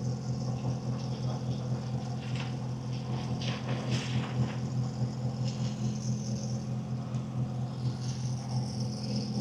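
A steady, low engine hum at an even pitch, like a motor idling close by.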